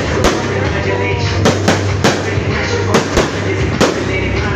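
Fireworks going off in a quick string of sharp bangs, several within a few seconds, over background music and voices.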